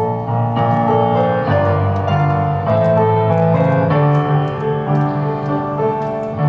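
Background piano music, soft and slow, with held notes and chords.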